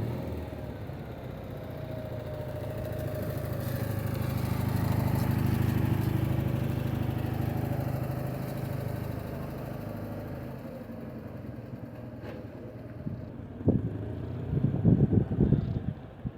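A vehicle engine running as it passes, growing louder to a peak about a third of the way through and then fading away. A few loud thumps come near the end.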